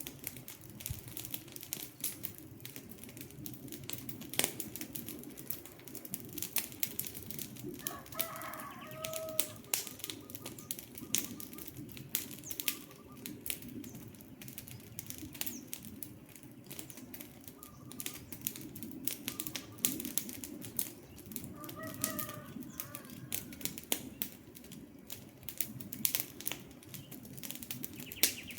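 Wood campfire burning, with frequent sharp crackles and pops from the logs over a low rumble of flames. A bird calls briefly about eight seconds in and again about twenty-two seconds in.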